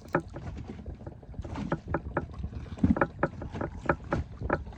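Irregular knocks and slaps on a small inflatable boat as it rocks at anchor, over a low steady rumble of wind on the microphone.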